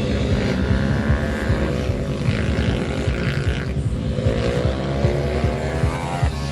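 Pit bike engines running hard while racing, their buzzing pitch rising and falling as the riders open and close the throttle.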